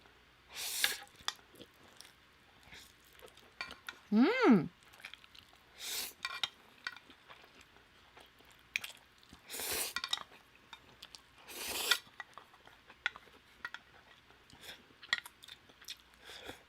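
Spicy noodles being slurped in several short loud bursts, with chewing and small clicks of utensils against a bowl. About four seconds in comes one brief vocal sound that rises and then falls in pitch.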